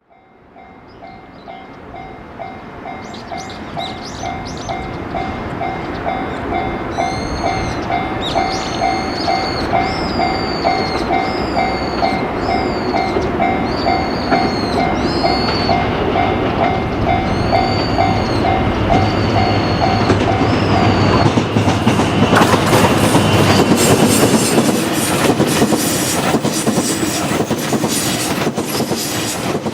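Level-crossing warning bell ringing at about two strokes a second as a diesel-hauled train approaches, the rumble growing steadily louder. From about 22 seconds in the bell is drowned by the train passing, its wheels clacking over the rail joints.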